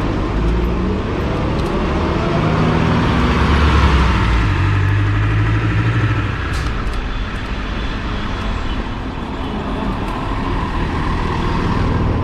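Road traffic: motor vehicles passing close by, with engine tones and tyre noise, loudest about four seconds in.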